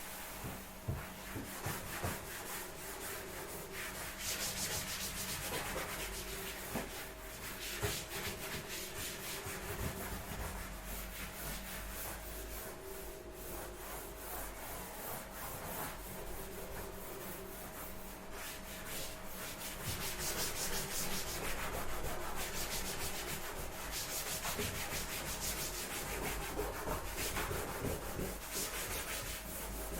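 A surface being rubbed down by hand in repeated scratchy strokes, like sanding, a little louder from about two-thirds of the way through.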